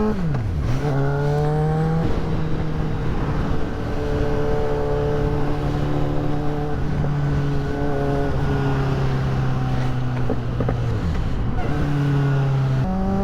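Motorcycle engine under way, upshifting about half a second in and again near the end, and holding steady revs through the middle. The revs dip and climb again about eleven seconds in, with steady wind rush throughout.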